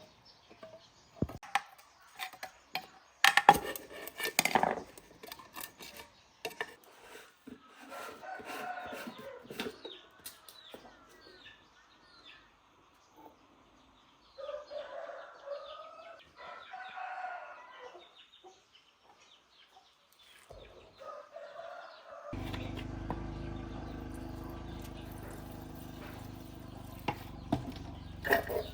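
Chickens clucking with a rooster crowing around the middle, among scattered sharp knocks and clicks. About three quarters of the way through, a steady low machine hum starts suddenly and carries on.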